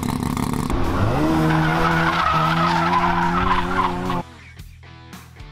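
Car engine revving up about a second in and held at high revs, with tyres skidding. The sound drops much quieter about four seconds in, leaving a fainter steady engine hum.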